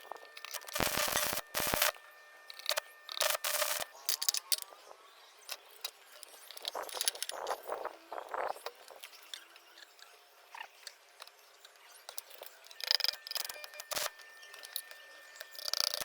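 Irregular handling sounds of hand work on workshop parts: scattered scrapes, clicks and knocks, with a cluster of louder ones about a second in and again near the end.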